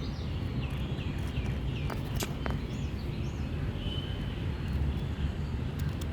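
Birds calling in the background: a quick series of short hooked whistled notes in the first two seconds, then a few higher notes and one held thin note, over a steady low outdoor rumble.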